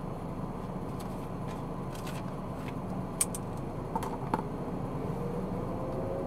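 Steady road and engine noise of a car being driven, with a handful of short, sharp clicks at irregular moments through it.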